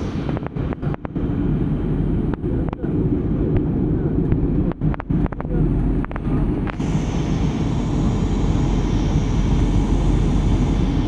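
Steady low rumble of passenger airliner cabin noise in flight, with the sound cutting out briefly several times in the first seven seconds.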